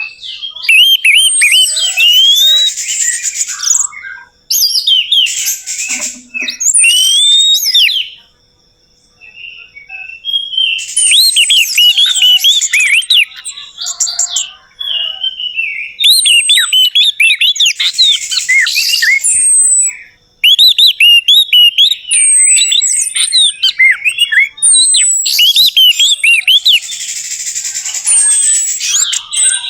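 Orange-headed thrush singing loud, rapid runs of varied chirps and whistled notes, broken by short pauses, the longest a couple of seconds about eight seconds in.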